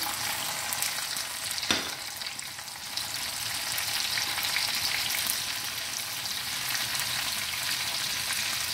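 Chopped tomatoes and green chillies sizzling and crackling in hot ghee in a frying pan, with dried red chillies and cumin, just after they are tipped in for a tadka. There is a single sharp knock about two seconds in.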